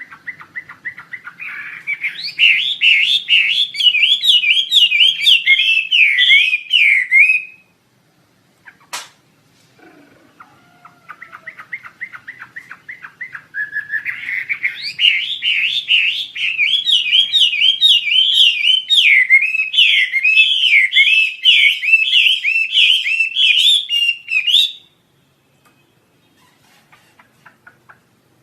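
Wambi asia songbird singing two long phrases of rapid, repeated chirping notes, each building up from softer notes into a fast, loud run and stopping abruptly. A single sharp click falls in the pause between them.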